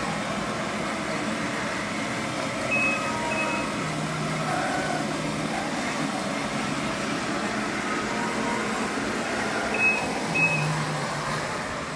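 Robotic floor scrubber running with a steady machine hum, giving two pairs of short high beeps about three seconds in and again near ten seconds.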